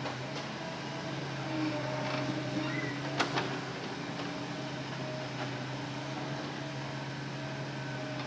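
Hitachi Zaxis excavator running steadily under load, its engine and hydraulics giving an even hum with a slight rise in pitch near two seconds. A few light clicks and one sharp knock about three seconds in.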